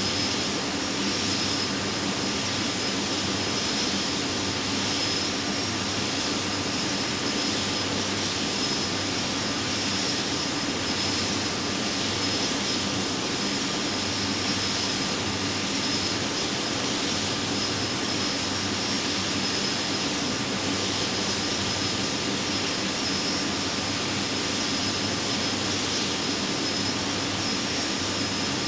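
Steady in-flight noise inside an Airbus A320-214: an even rush of airflow and jet engine with a thin, high steady whine over it.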